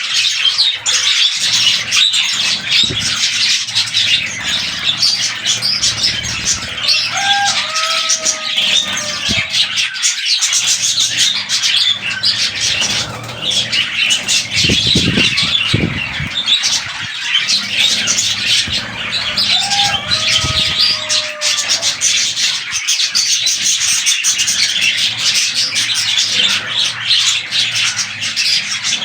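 A flock of budgerigars chattering and warbling nonstop, with a few lower whistled calls that slide in pitch.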